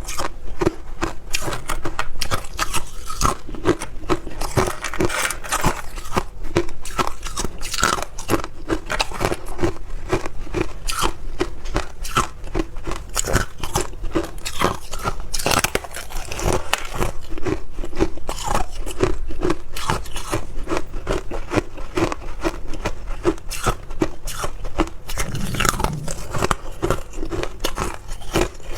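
Hard clear ice being bitten and chewed close to the microphone: a continuous run of sharp cracks and crunches as the ice breaks between the teeth.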